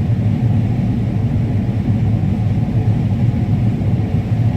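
Combine harvester running steadily while harvesting corn: an even, unbroken low rumble of engine and threshing machinery.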